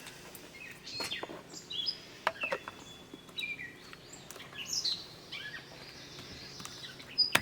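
Small birds chirping in short, rising and falling calls, with a few faint clicks.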